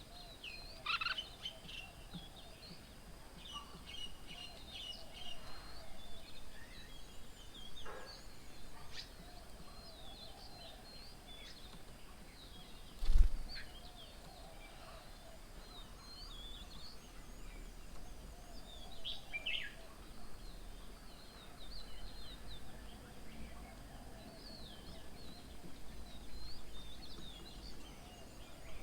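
Several wild birds chirping and calling, with many short, high chirps and a fainter, lower wavering call. A single brief low thump about halfway through.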